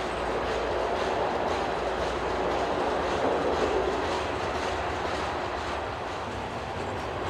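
Freight train of loaded tank cars rolling past: a steady rumble of steel wheels on rail with a faint, evenly repeating clicking of the wheels.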